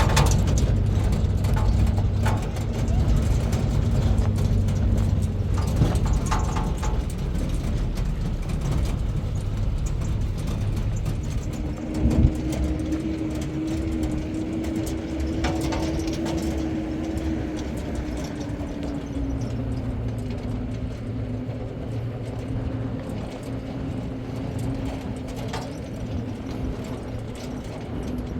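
A vehicle engine running steadily with a low, even hum. The pitch shifts about halfway through, and there is a single knock near the middle.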